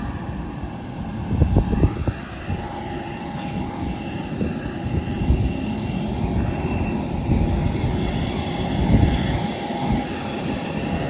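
Steady hum and hiss inside an Airbus A320 cabin while it stands at the gate, with a faint steady whine running through it. A few dull low thumps come about a second and a half in and again near the end.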